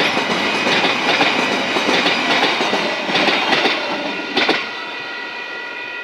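Passenger train carriages rolling over a level crossing, with a rushing rumble and the clack of wheelsets hitting the rail joints. The last wheels clack loudly about four and a half seconds in, then the train noise drops away. The crossing's warning bell keeps ringing steadily.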